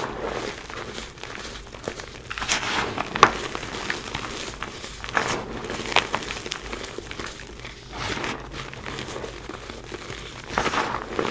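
Reformed gym chalk being crushed and crumbled, giving irregular crunches and crackles, with a few sharper snaps in clusters, the sharpest about three seconds in.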